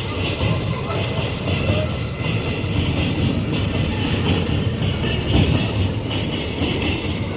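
Freight train rolling past, a steady rumble of wheels and wagons with a louder knock about five seconds in.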